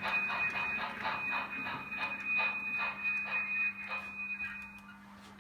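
Model train running on the layout: a steady high-pitched whine with rhythmic clicking of the wheels on the track. Both stop about five seconds in, as the train halts.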